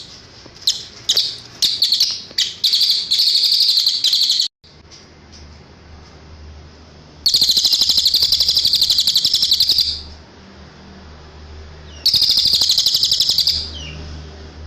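Cililin songbird singing: a few sharp high chips, then rapid high-pitched trills. The first trill cuts off abruptly about four and a half seconds in, and two more trills come, each about two to three seconds long.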